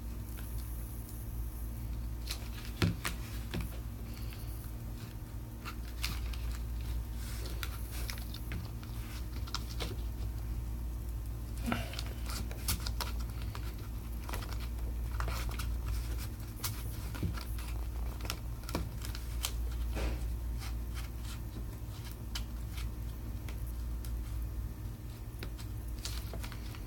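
Scattered small clicks, ticks and scrapes of hand tools handling a Samsung Galaxy S7 Edge during disassembly, over a steady low hum.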